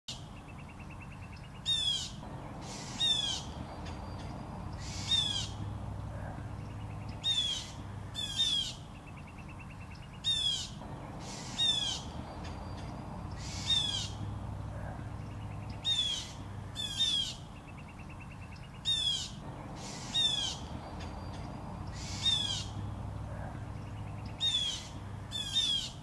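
Harsh, scratchy bird calls repeated every second or two, a few of them led in by a short fast rattle: alarm and scolding calls of birds mobbing a great horned owl.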